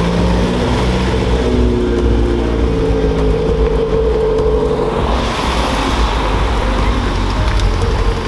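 A car's engine and exhaust running close by, loud and steady, with a deep drone and a couple of held notes that shift about five seconds in.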